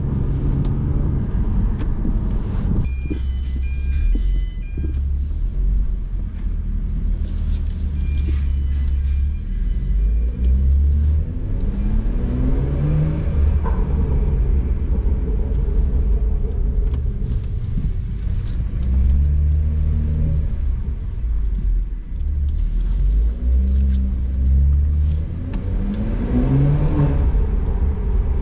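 Decatted, Stage 2+ tuned BMW 340i's 3.0-litre turbocharged B58 straight-six under way with a steady low drone, rising in pitch under acceleration three times, about 12, 19 and 26 seconds in.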